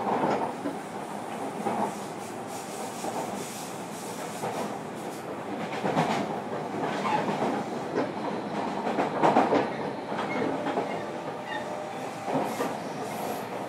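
Running noise heard inside a JR Kyushu 305 series EMU motor car: a steady rumble of wheels on rail, with irregular clacks and louder knocks every second or two as the train goes over rail joints and track.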